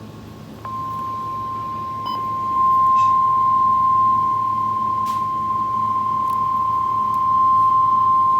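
NOAA Weather Radio's 1050 Hz warning alarm tone, heard through the radio's speaker: a single steady high tone that starts about a second in and holds, signalling that a warning is about to be read.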